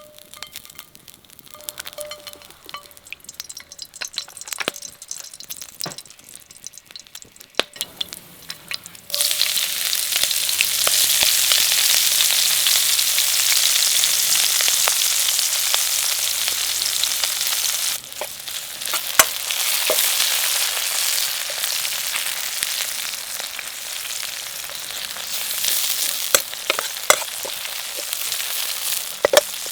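Food sizzling in hot oil in a pan over a wood fire. The first nine seconds hold only quieter scattered crackles and clicks. Then the food goes into the oil and loud sizzling starts suddenly. About halfway through it drops to a lower sizzle, with the clicks of stirring.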